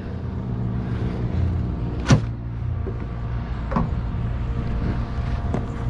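A steady low mechanical hum, with one sharp knock about two seconds in and a fainter click near four seconds.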